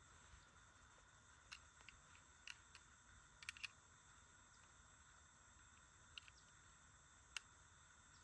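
Near silence: faint background hiss with a few scattered faint clicks, the clearest about three and a half and seven and a half seconds in.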